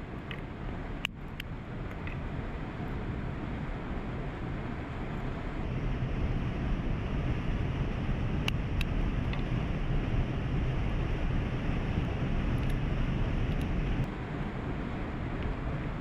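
Waterfall rushing steadily. It grows louder about six seconds in and eases back near the end, with a few faint sharp clicks over it.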